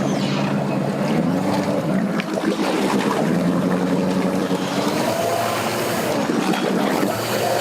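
Boat motor running at low throttle, its hum rising briefly and dipping a little later, over steady wind noise and water.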